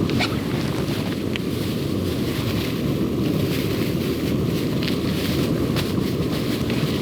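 Campfire burning: a steady low rush with scattered sharp crackles and pops.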